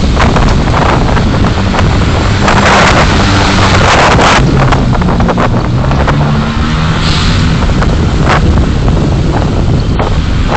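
Continuous road and wind noise of a car driving, picked up by a dashcam microphone, with short louder hissing surges and a faint engine drone partway through.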